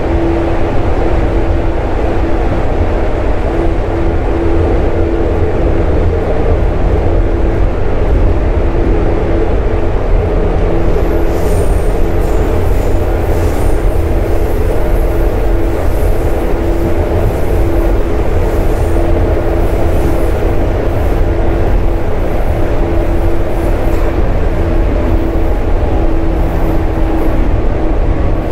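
JR Kyushu 415 series electric multiple unit running at a steady speed, heard from inside the car: a loud, even rumble of wheels and running gear with a steady hum. Faint high squeaks and ticks join in about eleven seconds in.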